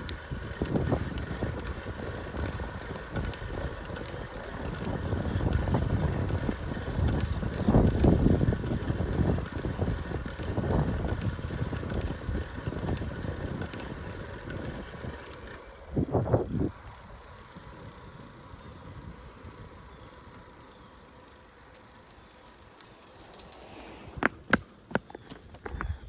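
Wind buffeting and tyre rumble from a bicycle ride, with uneven bumps. After about sixteen seconds it settles to a quieter stretch where the steady high buzz of insects stands out. A few sharp clicks come near the end.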